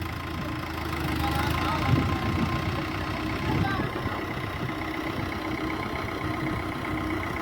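Tractor engine idling steadily, with voices in the background.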